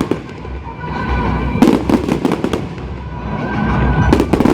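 Display fireworks going off: rapid clusters of crackling bangs about a second and a half in and again near the end, over a low rumble.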